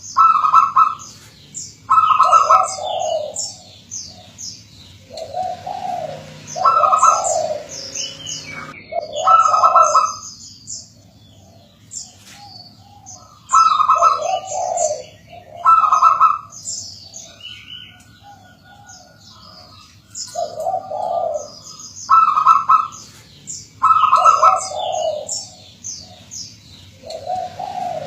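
Zebra dove (perkutut) cooing: short phrases of low cooing notes repeated every couple of seconds, with a few quieter pauses. Small birds chirp at a high pitch over it.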